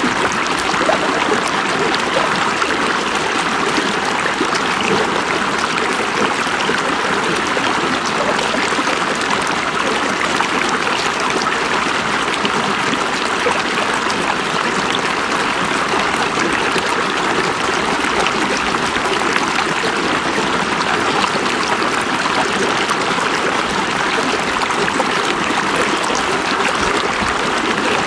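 River water running over rocks, a steady rushing and babbling that does not change.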